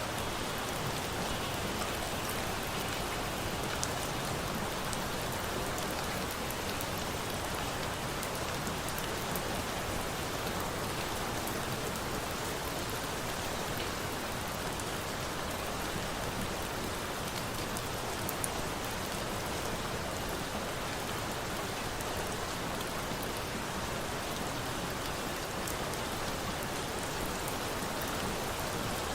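Steady rain falling and pattering on a surface, an even hiss with a few faint isolated clicks.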